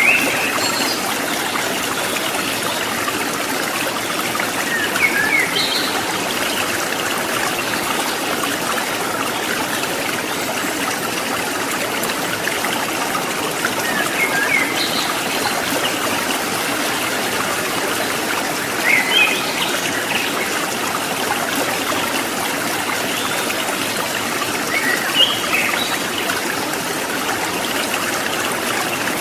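Stream water trickling and splashing steadily, with short, high bird chirps breaking in about five times.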